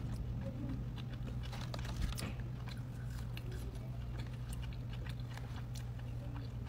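Close-miked chewing of a mouthful of In-N-Out burger, with soft irregular crunches and wet mouth clicks over a steady low hum.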